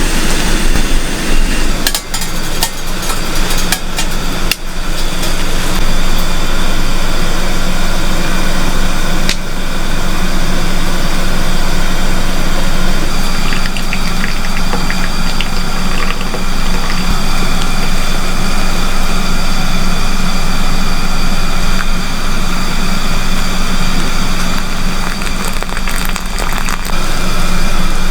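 A steady engine or motor hum with a constant low drone, and a few faint clicks in the first ten seconds.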